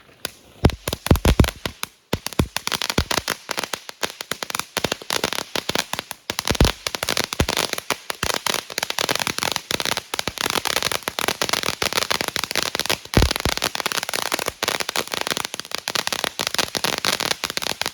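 Consumer fireworks going off in a rapid, unbroken crackle of many small pops, with a few louder bangs about a second in, about a third of the way through and about three-quarters of the way through.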